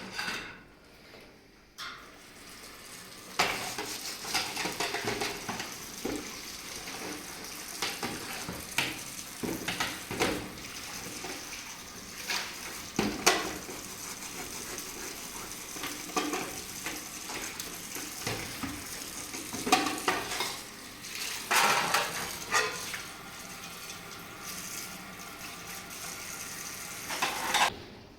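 Cooking: a steady sizzle, with short metallic clinks of utensils against a pot scattered through it.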